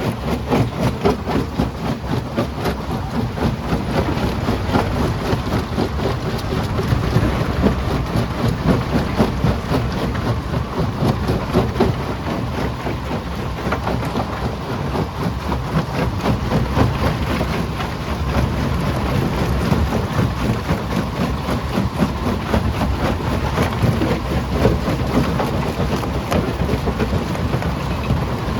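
Primary jaw crusher crushing rock: a continuous rumble with a dense, unbroken clatter of stone breaking and rattling.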